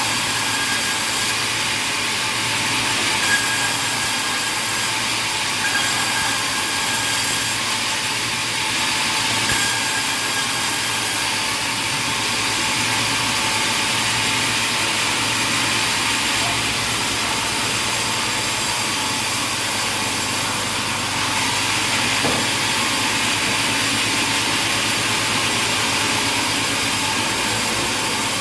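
Sawmill machinery running steadily, a constant mechanical noise with a hiss over it, with a few brief louder moments.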